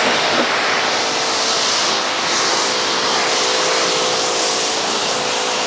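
Pressure washer spraying water onto a car's bodywork: a steady loud hiss of spray over the hum of the washer's pump motor.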